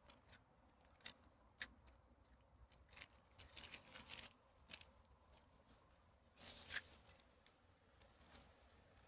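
Faint scattered crackles and rustles of forest litter and rubbish being handled and picked up, with a cluster of rustling in the middle and the loudest crackle about two-thirds of the way through.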